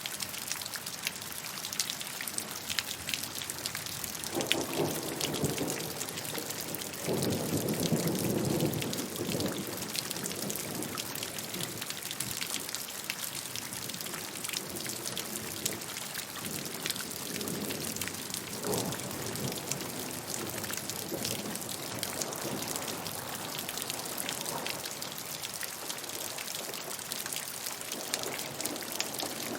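Steady rainfall, drops pattering on a surface with many small individual ticks over a constant hiss. Low rumbles swell under it about four and seven seconds in, the second the louder, with fainter ones later.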